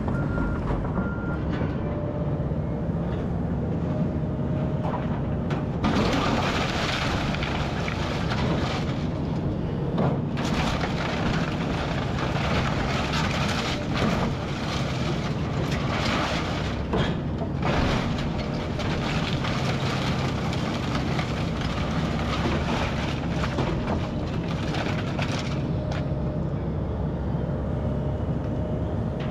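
Kobelco SK210 hydraulic excavator's diesel engine running steadily under load while it tears into a house, with several crunching crashes of breaking building material. The longest and loudest comes about six seconds in, and others follow near ten, fourteen and seventeen seconds.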